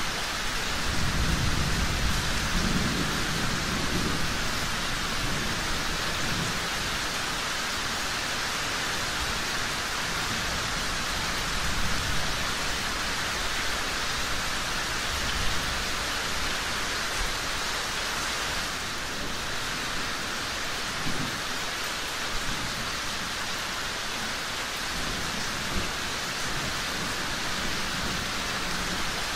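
Steady rain falling, with low thunder rumbling during the first few seconds. A few brief sharp pops stand out above the rain.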